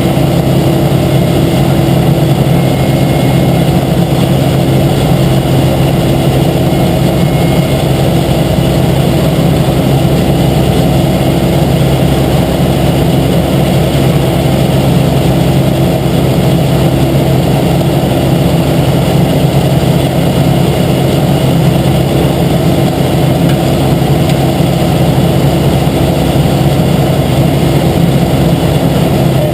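Engine of heavy asphalt-paving machinery running steadily at one constant speed, a loud, unbroken hum.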